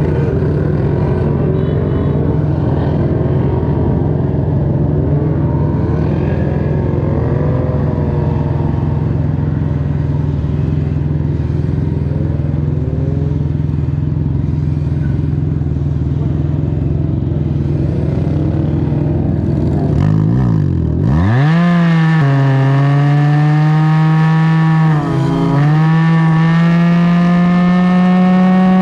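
Can-Am Ryker engine through an aftermarket BKD Insomnia series exhaust: a steady low rumble for about twenty seconds, then the engine revs up quickly and holds a loud, steady high note under way, easing off briefly about 25 seconds in before pulling again.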